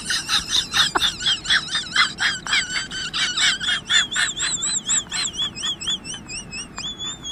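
Bird-like chirping: a quick run of high warbled notes, about four a second, each sliding up and down, turning into a faster, softer trill about six seconds in.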